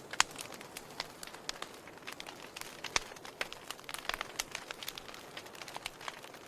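Wood fire burning in a fireplace, crackling: irregular sharp pops and snaps over a soft hiss, with louder pops near the start and about three seconds in.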